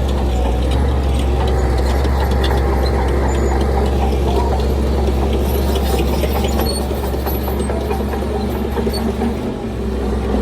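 Heavy diesel engine of earthmoving machinery running steadily under load, a deep low drone with light metallic clatter over it. It dips briefly near the end.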